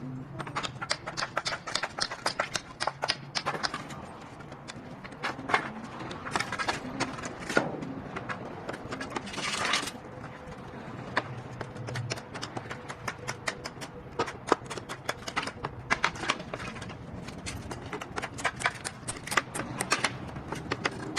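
Hailstones striking a hard surface: a dense, irregular patter of sharp clicks and knocks, with a short hissing rush about ten seconds in.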